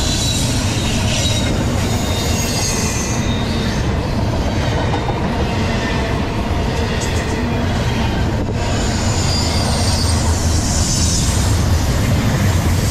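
Double-stack intermodal freight cars rolling past close by at speed: a steady loud rumble and clatter of steel wheels on the rails. Thin high wheel squeals come and go.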